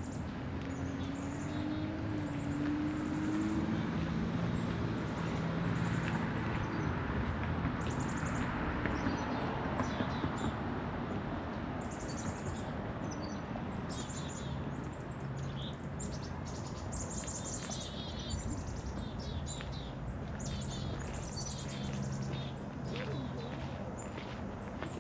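Songbirds chirping and singing in many short, quick calls, busiest in the second half, over a steady low outdoor rumble.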